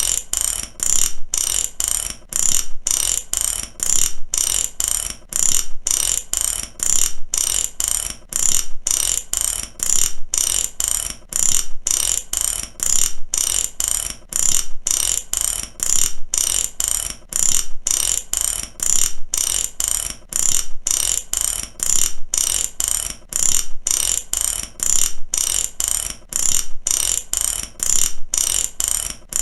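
Ratchet wrench being worked: fast runs of sharp clicks from the pawl over the gear, in repeated strokes about a second apart.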